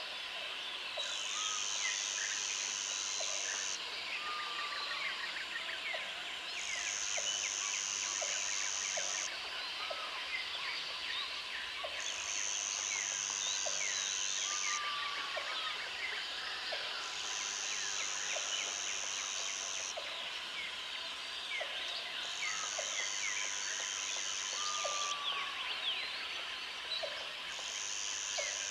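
Jungle ambience: an insect's high buzzing trill comes in regular bursts of about three seconds, repeating roughly every five seconds, over a dense chorus of bird chirps, whistles and insect calls.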